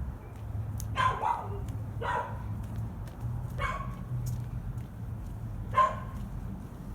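A dog barking: four single barks spaced a second or two apart, over a steady low hum.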